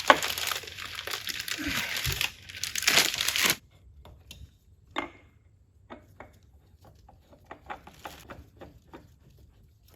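Plastic Ziploc bag crinkling and rustling for about three and a half seconds as the oil filter is unscrewed inside it to catch the dripping oil, then a few faint clicks and taps of handling.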